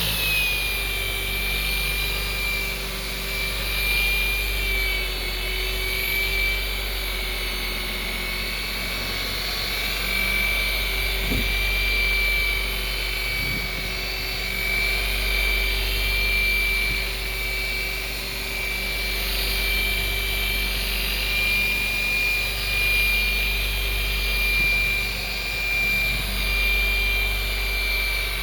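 DeWalt DWP849X rotary buffer running at a steady speed, buffing compound into oxidized gelcoat: a steady motor whine that swells and dips slightly in loudness as the pad is worked.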